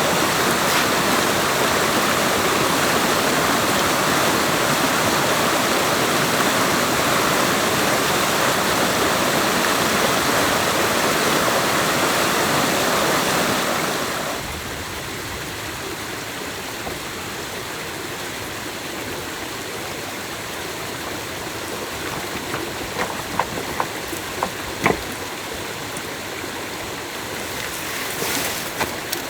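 Stream water rushing steadily. About halfway through it drops to a quieter flow, and a few light knocks follow.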